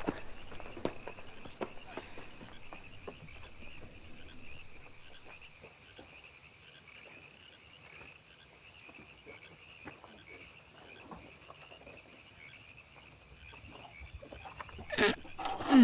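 Steady night-time chorus of crickets or similar insects, with scattered faint clicks and knocks. Near the end comes a loud sound that slides down in pitch.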